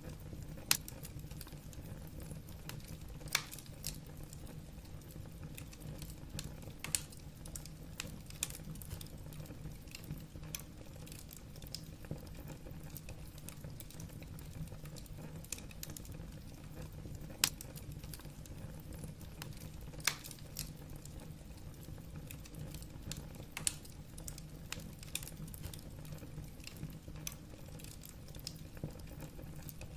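Wood fire burning in a fireplace, logs crackling with irregular sharp pops over a steady low rumble.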